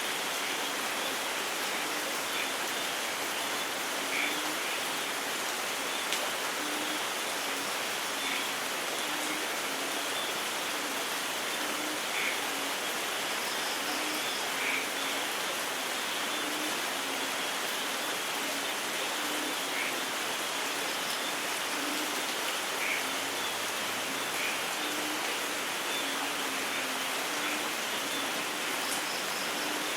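Steady rain falling, an even hiss with no thunder and with faint short low notes here and there.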